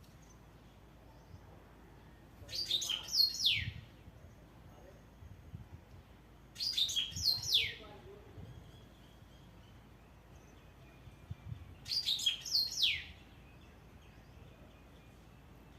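A songbird singing three short phrases several seconds apart, each a quick run of high notes sliding downward.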